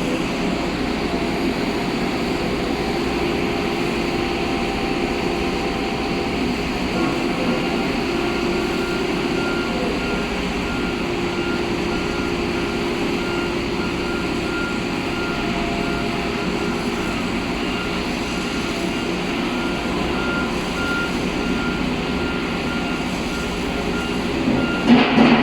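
Heavy construction machinery engines running steadily on a pile-drilling site, with a reversing alarm beeping over and over from about a quarter of the way in until near the end.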